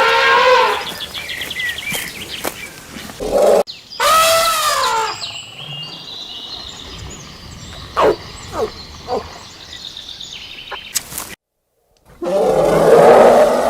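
Animal calls from several clips: a falling call at the start, a rising-then-falling call about four seconds in, and three short falling calls about eight to nine seconds in. The sound cuts out briefly near the end before a louder, noisier passage.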